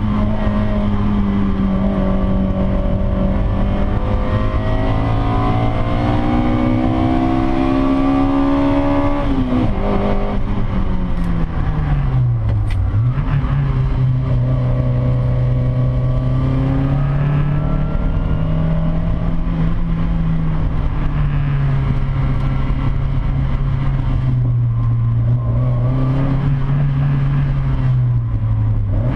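Hillman Imp-engined Davrian Mk8 sprint car running hard. The revs climb steadily for about nine seconds, drop sharply as the driver lifts off, then rise and fall at middling revs for the rest. Two short clicks come about a dozen seconds in.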